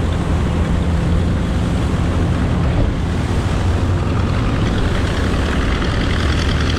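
Martin Mars flying boat's four Wright R-3350 18-cylinder radial engines running at taxi with a steady, loud drone, mixed with wind and water noise.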